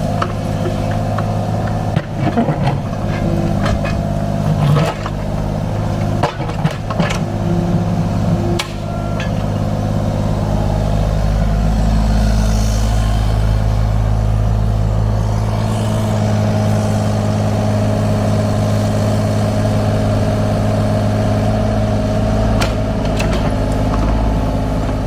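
Kubota U35-4 mini excavator's diesel engine running steadily under hydraulic load while digging. Sharp knocks and clanks during the first nine seconds, then steadier running, with the engine note changing about sixteen seconds in.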